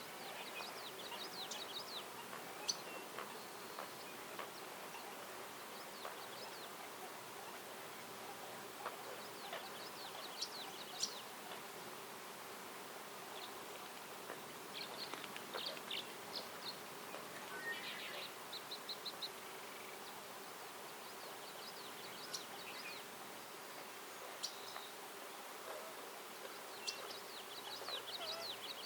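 Songbirds singing short, rapid trilled phrases that recur every few seconds, over a faint steady hum.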